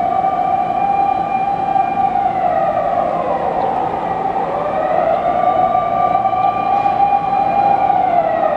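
Wailing siren: a pitched tone with overtones that holds high, sinks, then climbs back and holds before sinking again, in a slow cycle of about five to six seconds.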